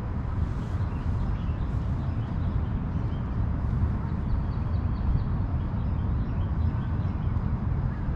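Wind buffeting the camera microphone: a steady low rumble, with faint high chirps about four to five seconds in.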